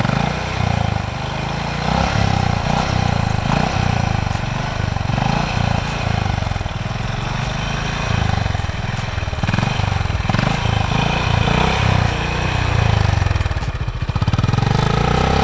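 Honda H'ness CB350's single-cylinder, four-valve engine and exhaust running steadily at idle.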